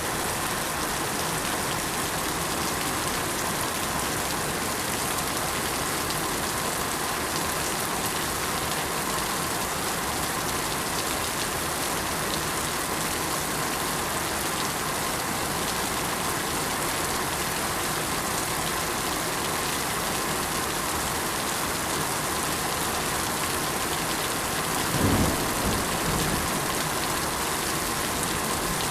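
Steady rain falling, an even hiss, with a short low rumble of thunder near the end.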